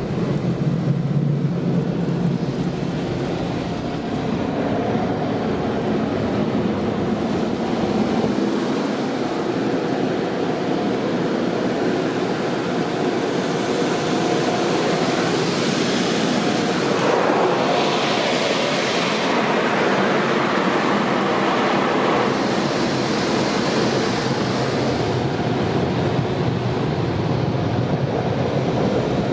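Automatic car wash equipment running around a car, heard from inside it: a steady roar with a rushing hiss that swells for several seconds about halfway through and then eases.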